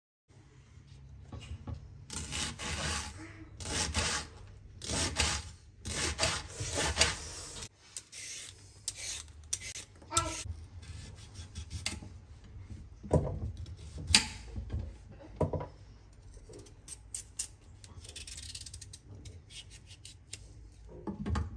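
Food being grated on a hand grater: a run of rasping strokes, about one a second, then lighter, irregular scraping with a few clicks.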